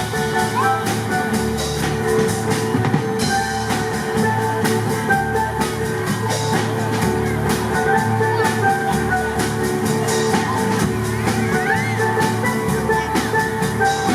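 Live band playing an instrumental passage with no singing: drum kit keeping a steady beat under bass and a lead line of short melody notes.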